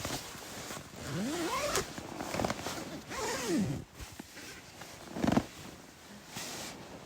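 A cat meowing twice, each meow rising then falling in pitch, over scratchy rustling and zipping noise.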